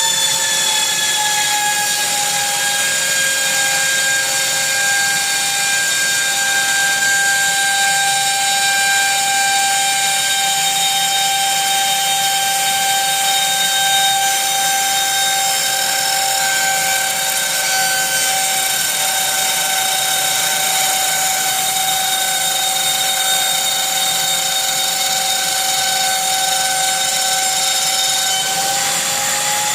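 800 W CNC router spindle running a cut with its dust extraction going: a steady high whine with overtones over a hissing rush of air. The whine dips slightly in pitch about a second in and climbs back near the end.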